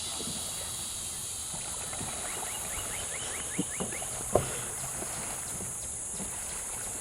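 Paddles working a homemade trash-can raft, with a few sharp knocks against the raft, the loudest about four and a half seconds in. A steady high hiss runs behind, and a quick run of short chirps comes in the middle.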